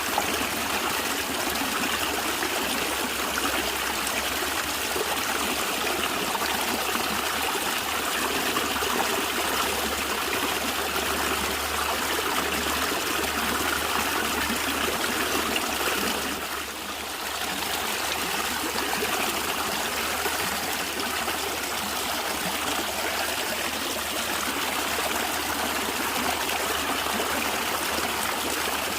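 Natural stream water flowing and gurgling steadily, dipping briefly in level a little past halfway.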